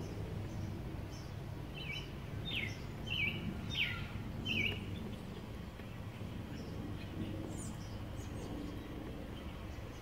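A small bird chirping: a run of about five short, falling chirps in the first half, then a fainter high chirp later, over steady low outdoor background noise.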